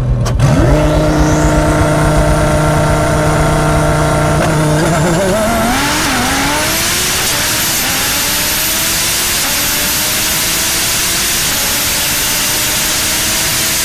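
A car engine holding a steady note, then launching about five seconds in and pulling hard, its pitch climbing slowly under a heavy rush of noise.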